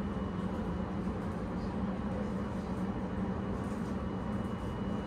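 Steady rumble of the Sunrise Seto sleeper train running, heard from inside the carriage, with a low hum and no distinct events.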